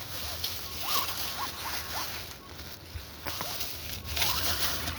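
Small electric motor of an RC crawler truck whining in several short rising spurts, with a scratchy rustle of the truck working over dirt and leaves.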